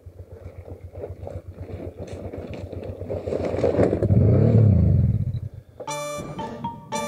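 Honda XRV750 Africa Twin's V-twin engine running at low speed over loose rock, with stones clattering under the tyres; a little past halfway it revs up and back down. Music takes over near the end.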